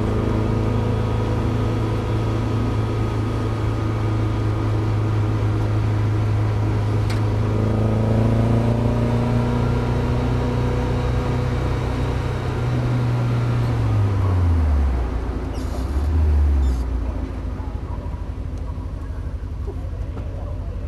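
Mazda MX-5 race car's four-cylinder engine running at steady revs, then falling away from about thirteen seconds in as the car slows. A brief blip of revs follows a couple of seconds later, and it settles to a quieter, lower note.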